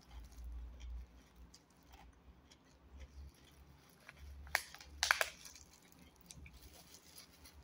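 Quiet eating by hand: chewing, with food handled in plastic-gloved fingers and a few sharp crackles a little past halfway.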